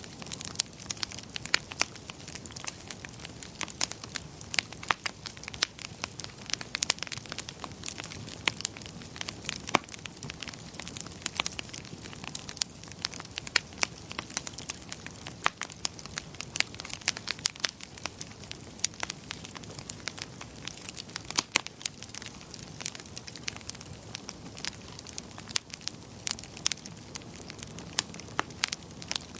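Wood fire crackling: dense, irregular sharp pops and snaps over a soft steady hiss.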